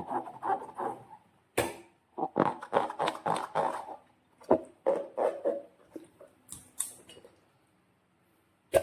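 Slime being squeezed and kneaded by hand: a quick, irregular run of sticky squelches that thins out after about seven seconds, then one sharp snap at the very end.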